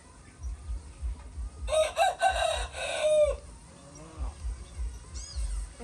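A rooster crowing once, about two seconds in: one drawn-out call of over a second that falls in pitch at the end. Irregular low thumping runs underneath.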